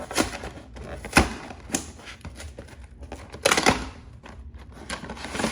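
Cardboard Pokémon TCG premium collection box being opened and handled: a string of sharp knocks and scrapes over a soft rustle. The loudest knock comes a little after a second in, and a cluster follows about halfway through.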